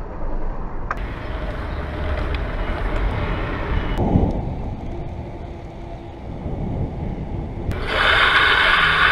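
Wind buffeting the microphone with road and tyre noise while cycling. A louder, brighter hissing buzz starts suddenly near the end.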